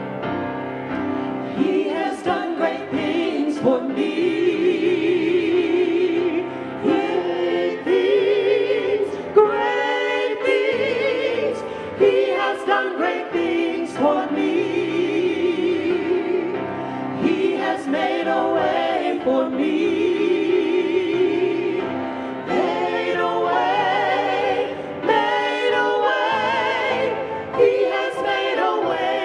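Church choir singing, with long held notes and wide vibrato.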